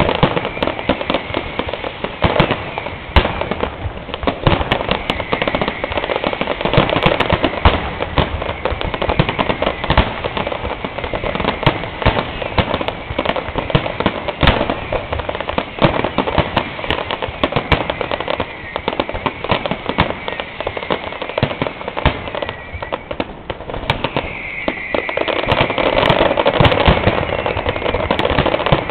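Fireworks display going off in a dense, continuous barrage of bangs and crackling, with whistling shells; one whistle falls in pitch near the end, before the bangs thicken again.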